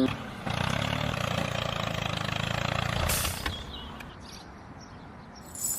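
A small engine running with a fast, even chatter for about two and a half seconds. A short hissy burst follows about three seconds in, then the running drops to a fainter, steady level.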